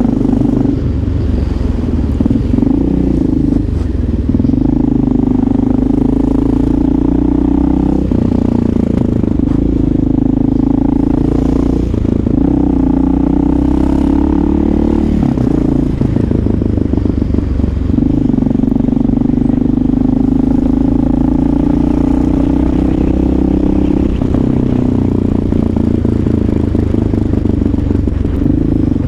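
Motorcycle engine running while riding, its pitch held steady for a few seconds at a time and changing every few seconds.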